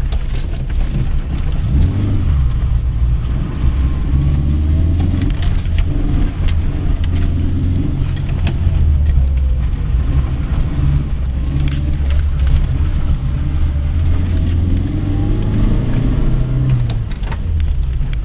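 Car engine heard from inside the cabin, driven hard, its revs rising and falling again and again. Short clicks and rattles from loose things in the cabin run through it.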